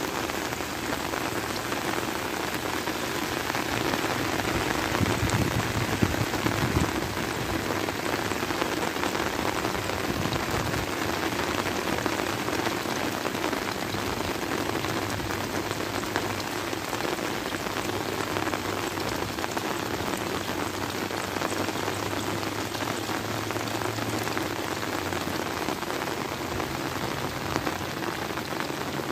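Heavy rain falling steadily on flooded rice paddies and plants, an even hiss of rain.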